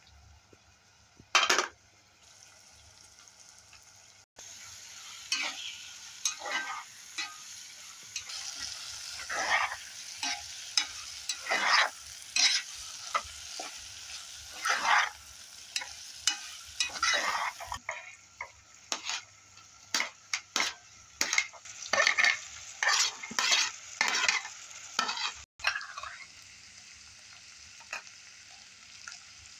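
Meat and onions sizzling as they fry in a granite-coated pot, with a spatula stirring and scraping the bottom in short strokes about once a second. A single sharp, loud sound comes about a second and a half in, before the frying starts.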